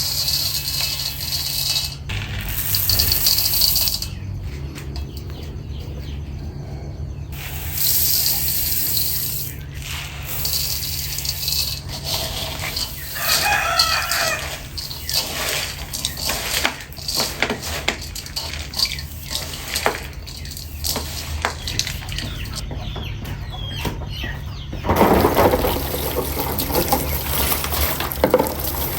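Chickens, with a rooster crowing once about halfway through. Near the end comes a steady rush of running or splashing water.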